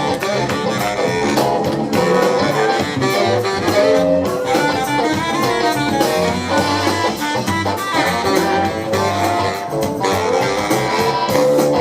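Live band playing an instrumental passage with horns, guitar and drum kit, in a soul-blues style.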